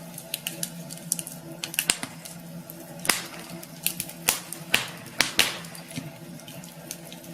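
Wood fire crackling in a fireplace: sharp irregular snaps and pops, several louder ones from about three seconds in, over a steady low hum.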